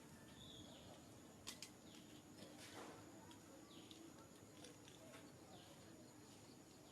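Near silence: faint background hum with a couple of faint clicks and a few short, faint high chirps.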